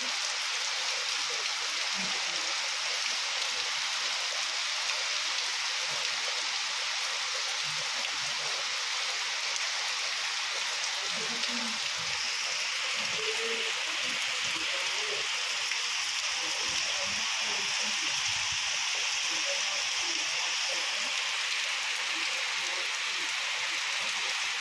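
Heavy rain pouring steadily, a constant hiss of downpour.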